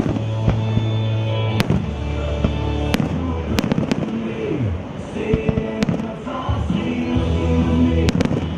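Aerial fireworks going off in a series of sharp bangs, about nine in all, some spaced a second or more apart and some in quick pairs, over music playing throughout.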